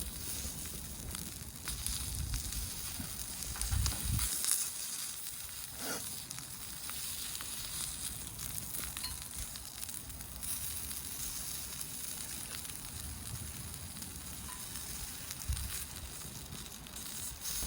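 Sausages sizzling on a grill over a wood campfire: a steady hiss with scattered small crackles, and low rumbles now and then.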